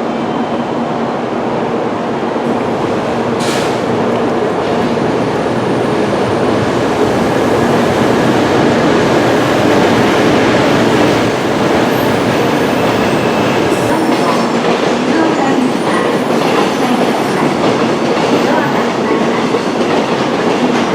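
Tokaido Shinkansen train moving along the platform, a loud steady rush of wheel and running noise that swells a little toward the middle.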